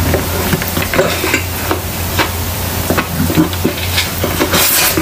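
Close-miked wet chewing, slurping and mouth smacking of pancit bihon rice noodles eaten by hand, a steady run of small clicky, squelchy mouth noises.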